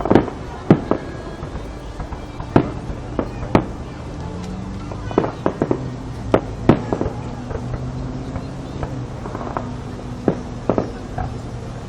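Fireworks going off: more than a dozen sharp bangs at irregular intervals, some coming in quick clusters around the middle.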